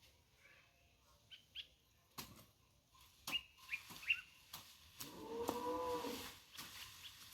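A hand hoe striking the soil in separate blows, with birds chirping. About five seconds in, a farm animal gives one drawn-out call lasting about a second and a half.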